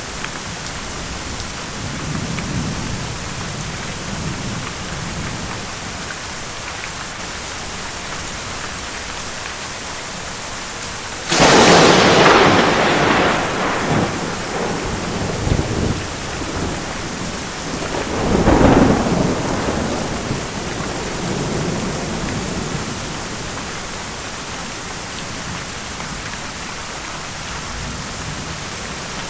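Steady rain with thunder: a faint low rumble early on, then a sudden loud thunderclap about a third of the way in that rolls off over several seconds, and a second peal about 7 seconds later that fades out.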